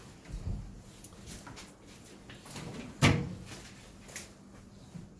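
A few light clicks and knocks of things being handled, with one sharp, louder knock about three seconds in.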